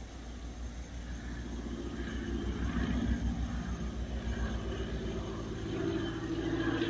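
A low engine rumble that grows gradually louder.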